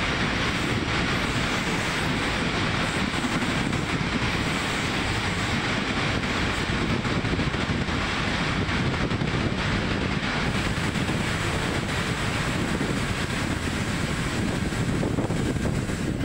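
Passenger train running at speed, heard from a coach window: a steady rush of wheels on rail mixed with wind on the microphone.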